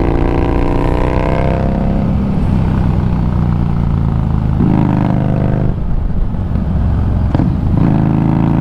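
Harley-Davidson Street Rod 750's V-twin engine running while ridden, its pitch rising as it pulls through the first second or so, then dropping and climbing again around five seconds in and near the end. A short sharp click sounds about seven seconds in.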